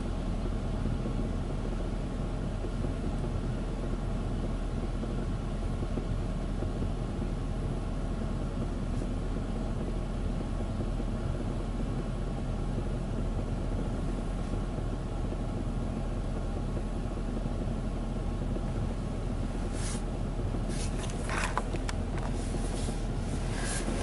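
Ryko Softgloss Maxx automatic car wash running with its brushes turning: a steady mechanical rumble. A few short squeaks and clicks come near the end.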